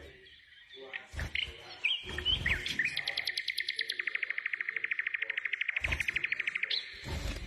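Pet parrots chirping, then one bird giving a rapid, even trill of about a dozen notes a second that lasts nearly four seconds. A few low thumps are heard alongside.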